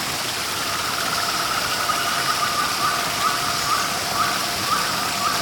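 Steady rush of a waterfall, with a bird giving short, repeated chirps about twice a second from about two seconds in.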